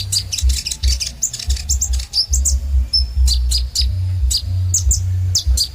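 Van Hasselt's sunbird (kolibri ninja) singing a fast, high-pitched run of short chirps and quick slurred notes. A low rumble comes and goes underneath.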